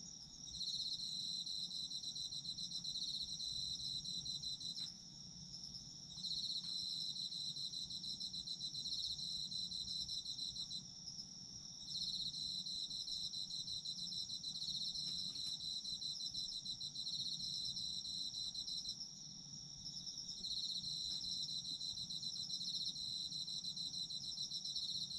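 Autumn insects chirping: one keeps up a steady high-pitched trill throughout, while another sings in long pulsing trills of a few seconds each, broken by short pauses.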